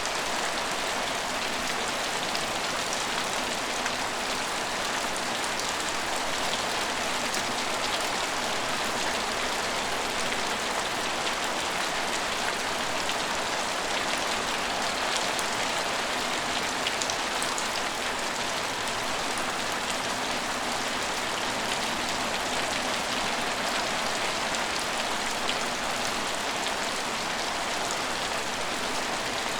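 Steady rain falling on hard surfaces, an even hiss with scattered drop ticks throughout.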